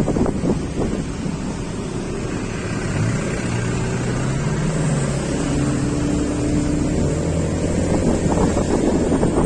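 Wind buffeting the microphone of a moving road vehicle over a low road rumble, with an engine tone that rises about three seconds in and then holds steady for several seconds.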